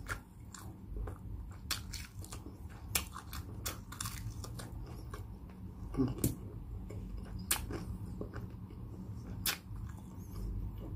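Close-miked chewing of crispy pata (deep-fried pork knuckle), with sharp crunches and wet mouth clicks at irregular moments. A brief low vocal sound from the eater comes about six seconds in.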